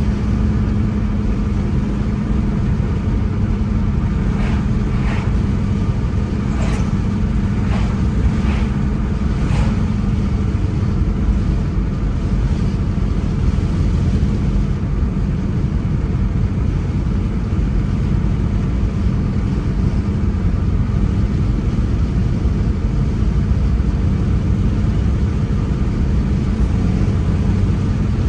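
A car driving on a road: steady engine and tyre rumble, with a steady hum that fades out about ten seconds in and a few brief sharper sounds between about four and ten seconds in.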